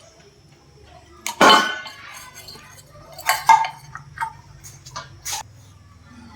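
Hard metal parts and tools clinking and clanking against each other: a series of sharp knocks with brief ringing, the loudest about a second and a half in, then a few more spread over the next four seconds. A faint low hum runs underneath.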